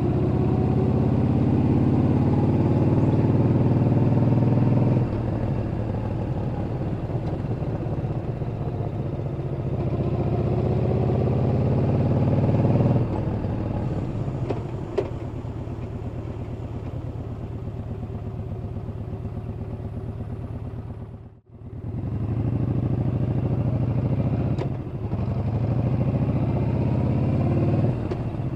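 Yamaha Bolt's air-cooled V-twin running under way, its note rising and falling as the throttle opens and closes through the ride. The sound briefly drops out about three-quarters of the way through, then comes back.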